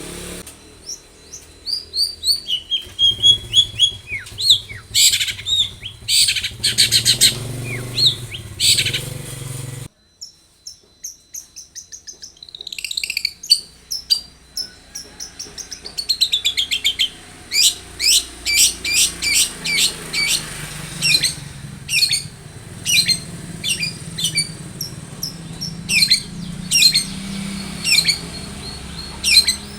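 Long-tailed shrike (cendet) singing, with rapid, harsh chattering notes and runs of short falling whistles. About ten seconds in the sound cuts off abruptly, then the song starts again.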